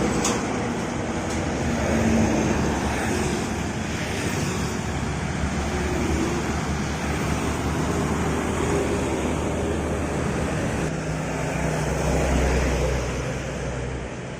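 Road traffic: vehicle engines running at speed over a steady rush of tyre and wind noise, the engine pitch shifting slowly up and down.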